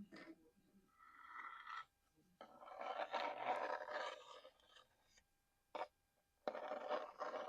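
Close-up ASMR scratching and scraping on a small object, in three bursts, a short one, a long one and one near the end, with a single sharp tap between the last two.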